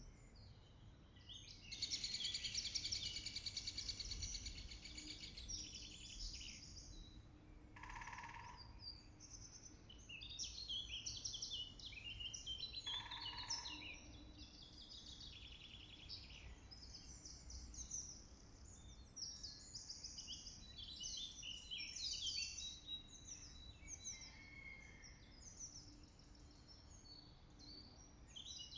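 A chorus of woodland songbirds singing and calling with many overlapping chirps and trills. About two seconds in, a loud, very fast rattle lasts for about four seconds. Two short, lower calls come later.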